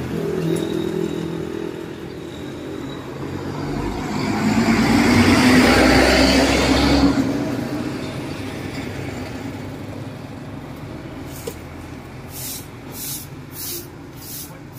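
Roadside traffic with one motor vehicle passing close by, building up, peaking and fading over several seconds.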